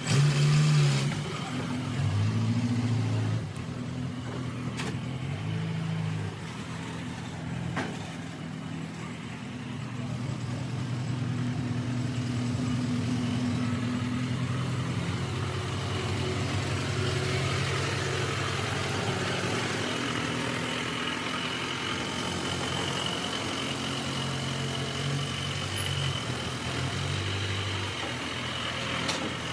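Engine of a Dodge M37 truck running under way, its pitch stepping up and down a few times in the first six seconds and then holding steadier. A faint steady high whine runs through the second half.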